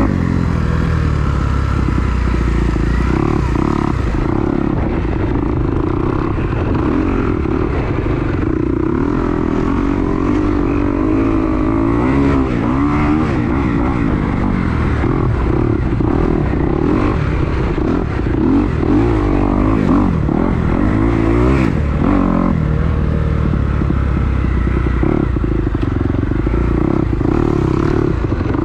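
Kawasaki KX250 four-stroke single-cylinder dirt bike engine being ridden, its pitch rising and falling again and again as the throttle is rolled on and off. Heavy wind rumbles on the microphone underneath.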